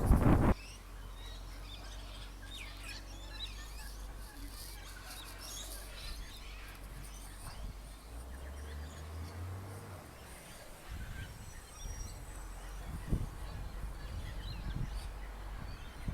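Faint, scattered bird chirps over a low background hum. A loud, noisy sound cuts off sharply about half a second in.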